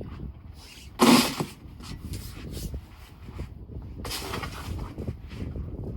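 Snow shovel scraping, two short loud strokes about a second in and again about four seconds in, over a steady low rumble of wind on the microphone.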